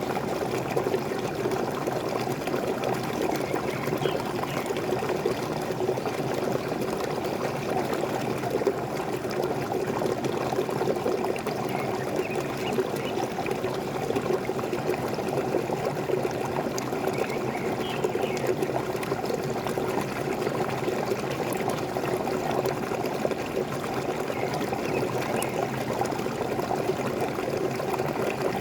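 Waterfall: water falling and splashing in a steady, even rush. A few faint bird calls come through it now and then.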